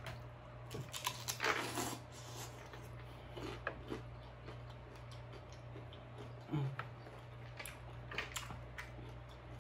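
Close-up eating sounds: a crisp corn tostada topped with shrimp ceviche being bitten and chewed, with scattered crunches and wet mouth clicks, densest a second or two in and again in short spells later.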